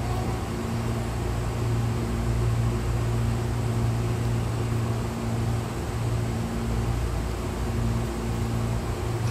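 Steady low hum of a stopped Hankyu electric train standing at the platform with its doors open, its onboard equipment running with a few steady tones over a constant noise.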